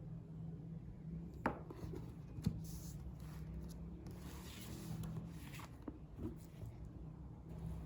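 Quiet household handling sounds: two light knocks about one and a half and two and a half seconds in, then a few seconds of rustling and rubbing, and a couple of small clicks near the end.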